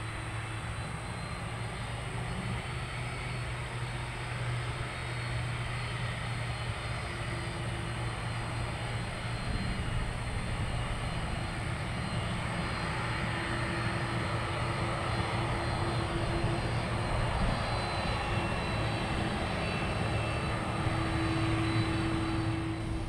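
Jet airliner engines running: a steady rush with a low hum and a faint high whine, slowly growing louder.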